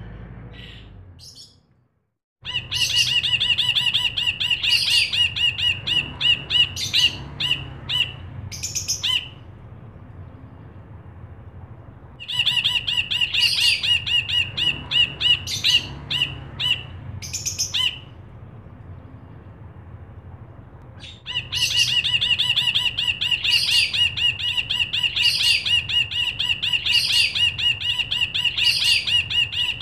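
Cinereous bulbul (brinji kelabu) singing in rapid, chattering runs of repeated notes, in three long bouts separated by pauses of a few seconds. The sound drops out completely for a moment about two seconds in.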